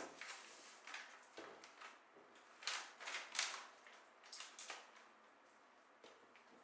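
A series of short, irregular rustles and scrapes from hands working with material in a small room, the loudest few near the middle.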